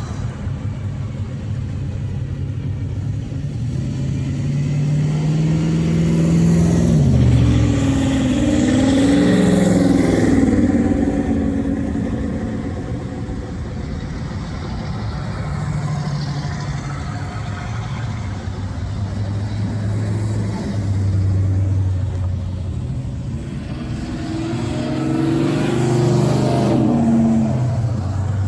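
Car engines running, with the engine note swelling, rising and falling twice, loudest about a quarter of the way in and again near the end.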